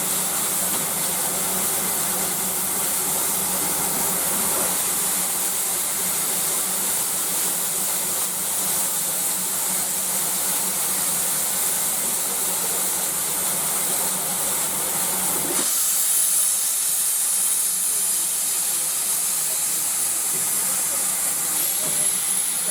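Steam locomotive hissing steam steadily. A low hum beneath the hiss stops suddenly about two-thirds of the way through, and the hiss carries on.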